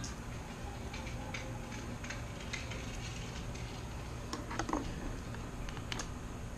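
Scattered light clicks and taps from small tank-mounting hardware being handled and fitted (a bushing, washer and screw), with a slightly louder couple of knocks a little past the middle, over a steady low background hum.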